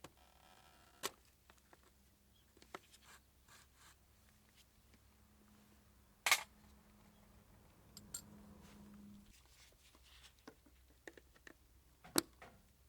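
Scattered small clicks and light knocks of hand work on small parts, the loudest about six seconds in and another near the end, over a faint steady hum that stops a little after nine seconds.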